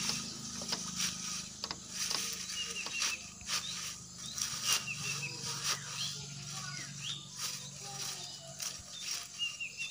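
Dry leaves and grass stalks rustling and crackling as a bundle is worked by hand, with many short sharp snaps throughout.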